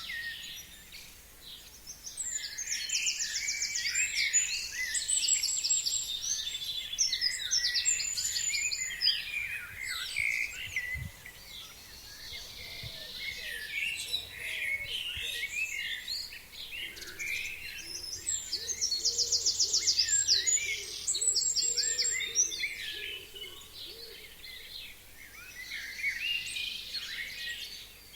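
Several forest birds singing together in early spring. One bird's song stands out twice, a few seconds in and again past the middle: a fast, high trill followed by quicker notes.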